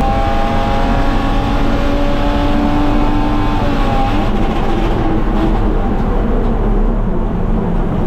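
BMW E36 325is straight-six engine pulling hard on track, heard inside the stripped cabin over tyre and wind noise. Its note holds steady, then changes about four seconds in.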